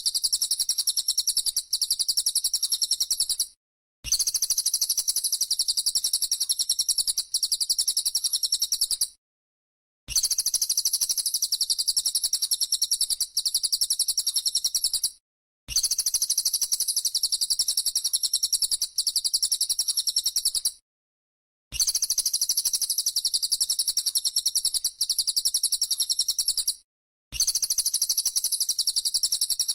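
Shrill, finely pulsed buzzing of a bren cicada, repeated as a loop: bouts of about five seconds each, cut by short silences five times.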